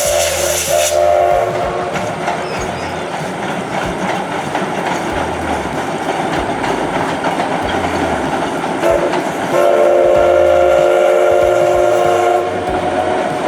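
Steam locomotive whistle blowing: a short blast at the start and a longer, louder blast of about three seconds later on, over the rumble and clatter of the moving train.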